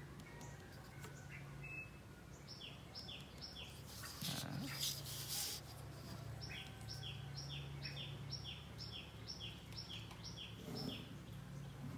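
A bird calling in runs of short, evenly spaced chirps, about three a second, over a low steady hum. A brief scrape about four seconds in, as a plastic ruler is shifted on the cardboard, is the loudest moment.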